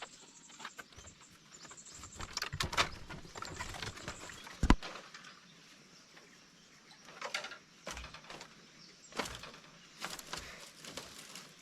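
Scattered knocks and rustling, as of wood or bamboo being handled, with one sharp knock about halfway through.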